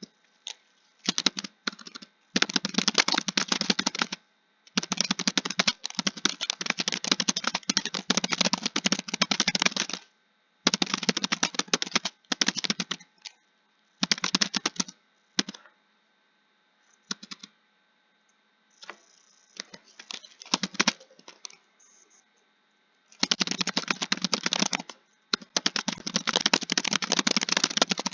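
Computer keyboard being typed on: fast runs of keystrokes broken by short pauses. In the middle there is a longer lull with only a few scattered keystrokes, before steady typing starts again.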